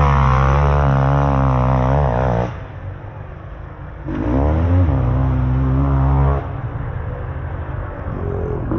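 Motocross dirt bike engines revving hard, rising and falling in pitch as the throttle is worked. The sound drops away about two and a half seconds in, comes back loud about four seconds in for a couple of seconds, and builds again near the end.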